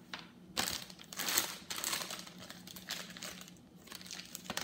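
Plastic candy bag crinkling in irregular bursts as it is shaken and emptied of foil-wrapped chocolate miniatures.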